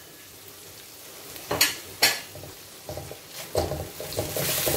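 Blended rendang spice paste frying in oil in a wok, with a faint steady sizzle. Two sharp knocks against the wok come about one and a half and two seconds in. Then a spatula stirs and scrapes the paste in quick uneven strokes while the sizzle grows louder near the end.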